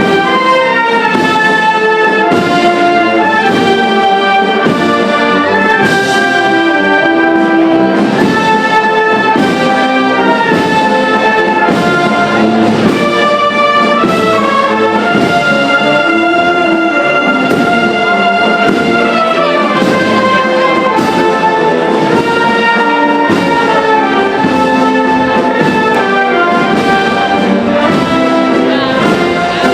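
Brass band playing a Holy Week procession march, trumpets and trombones carrying a sustained melody.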